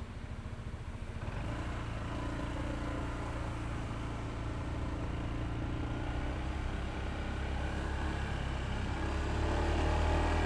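Honda ADV160 scooter's single-cylinder engine running, coming up in level about a second in and growing louder again near the end as it pulls away.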